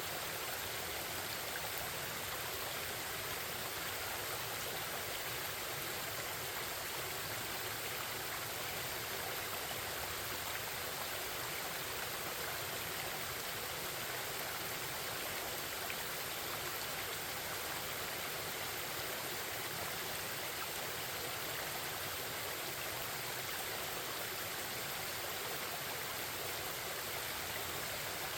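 Forest stream babbling, a steady, even rush of flowing water.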